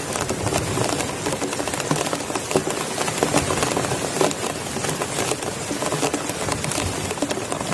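Heavy rain, a steady dense hiss full of individual drops pattering on a nearby surface, with a few louder hits now and then.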